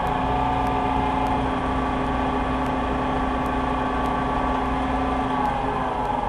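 Combine harvester running while cutting soybeans, a steady engine and machinery hum. Its pitch rises a little at the start and drops a little near the end.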